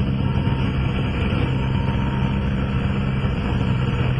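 Cabin noise of a Cessna 172SP's four-cylinder Lycoming engine and propeller running steadily at partial power on final approach, with a low drone and a hiss of airflow.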